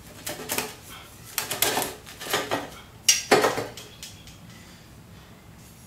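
Metal tools and engine parts clinking and clanking as they are handled, a run of separate knocks with the loudest just after three seconds.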